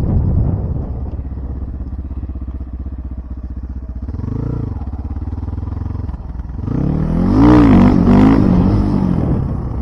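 Motorcycle engine idling, revved once about four seconds in, then blipped several times in quick succession near the end.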